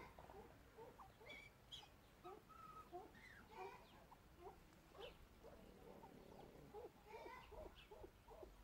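Faint bird calls: many short chirps and squeaks, several a second, scattered irregularly throughout.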